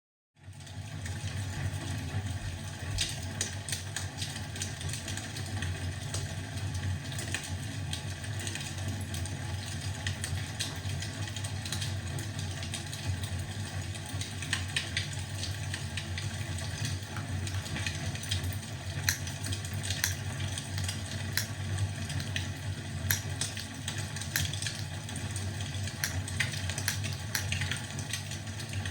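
Wood fire crackling in a fireplace: irregular sharp pops and snaps over a steady low rumble, coming in abruptly at the start.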